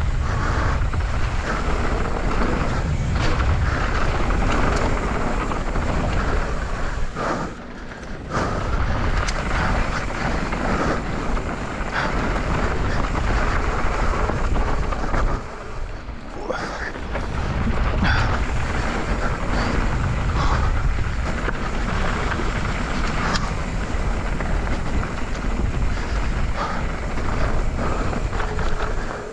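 Mountain bike descending a dirt trail at speed: wind rushing over the GoPro's microphone with tyre noise and the rattle of the bike, easing off briefly twice.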